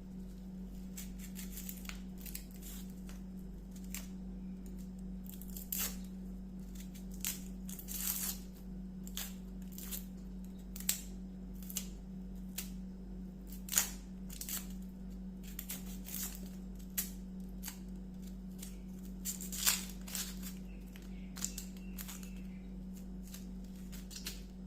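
Kitchen food-preparation handling: irregular sharp snips, clicks and rustles, a few of them louder, over a steady low hum.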